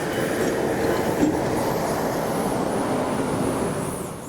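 Steam traction engine on the move along the road, a steady mechanical clatter of its running gear and wheels, dying away near the end.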